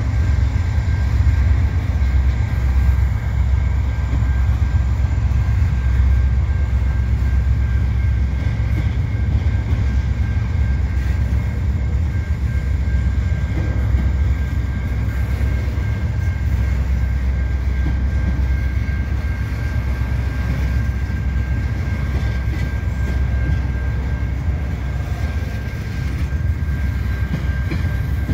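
Double-stack intermodal freight cars rolling slowly past: a steady low rumble from the train, with a thin steady high tone running over it.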